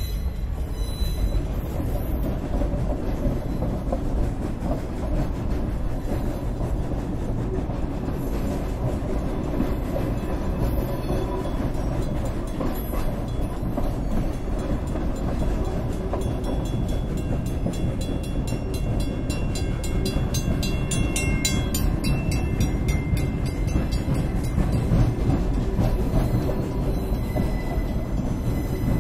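A steam-hauled freight train heard from aboard one of its cars: a steady rumble of wheels rolling on the rails, with clicks and rattles that grow more frequent in the second half.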